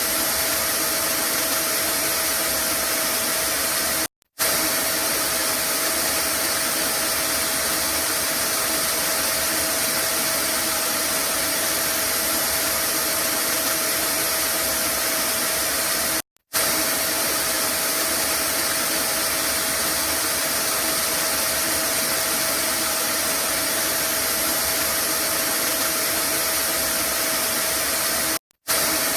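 Vacuum cleaner running steadily: a dense whooshing hiss with a steady whine. It cuts to silence for a split second three times, about twelve seconds apart.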